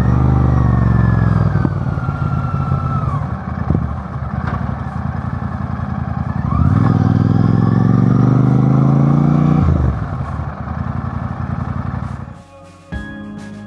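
A motor vehicle's engine running under load. Its pitch sinks over the first few seconds, then climbs steadily for about three seconds from the middle and drops away suddenly as the throttle comes off. Music begins right at the end.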